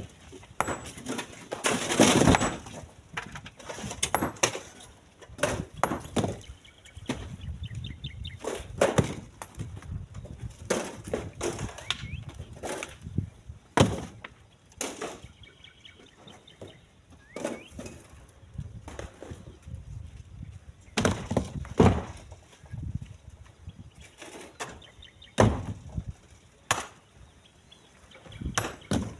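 Split stones knocking together and clattering down in irregular sharp impacts, as the stone is loaded by hand.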